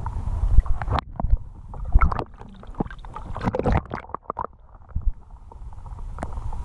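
Water splashing and gurgling against a fishing kayak, with irregular knocks and clicks through the middle, over a low rumble of wind on the microphone.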